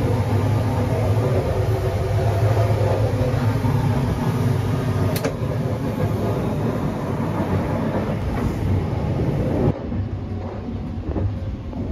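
Steady running noise of the Sunrise Izumo's 285-series sleeper train heard inside the car, a low hum and rumble, with one sharp click about five seconds in. Near the end the noise drops suddenly, as the toilet compartment's door is left behind for the carpeted corridor.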